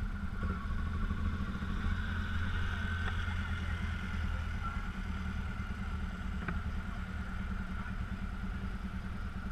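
BMW GS dual-sport motorcycle engine running at idle as the bike creeps forward at walking pace, a steady low rumble.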